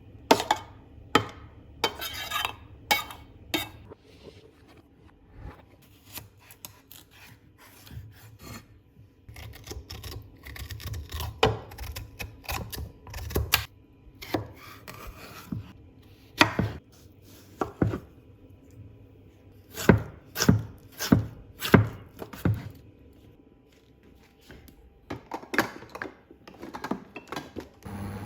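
A knife chopping food on a cutting board: sharp, irregular knocks that come in short runs with pauses between.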